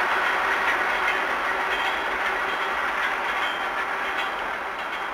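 Electric commuter train running on the rails: a steady noise of wheels on track with faint clicks, slowly fading as the train draws away.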